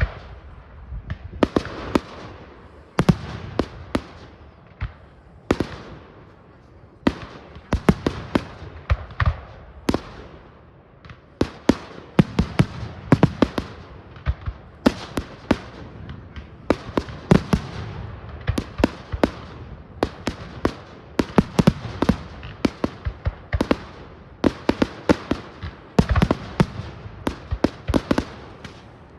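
Fireworks display going off: a rapid, irregular series of bangs and cracks, many overlapping, each followed by a short rumble.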